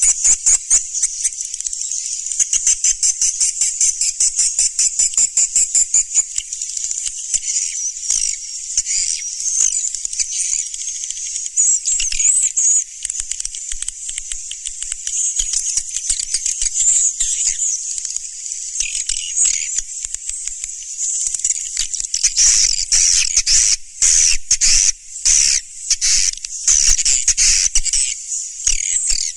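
A swiftlet lure-call recording: dense, high-pitched twittering chirps and rapid trills of swiftlets, fast and evenly pulsed at first, then more jumbled and uneven in the second half.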